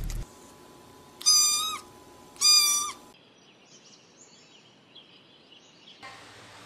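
Guinea pig wheeking: two loud, high whistling calls, each about half a second long and about a second apart. Faint bird chirps follow.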